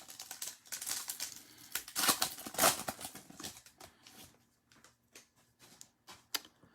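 Chrome trading cards and their foil pack wrapper being handled: crinkling and tearing, with cards rustling and clicking against each other, busiest in the first few seconds, then a few scattered clicks.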